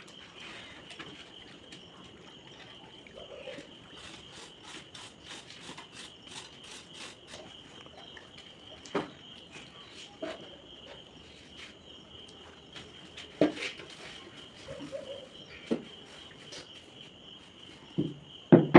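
Steady high chirring of crickets, with a few sharp knocks scattered through, the loudest ones near the end.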